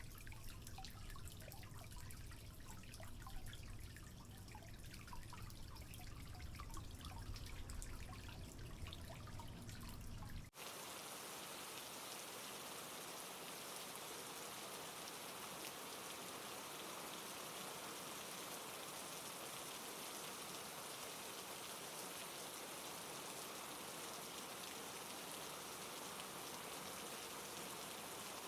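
Recorded rain-and-water ambience: scattered water drops dripping over a low rumble, then about ten seconds in it cuts abruptly to steady, even rain.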